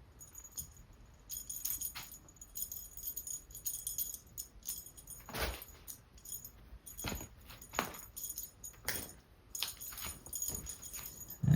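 Small bells jingling in fits and starts as cats play and scamper about, with a few light knocks and thumps of paws and bodies.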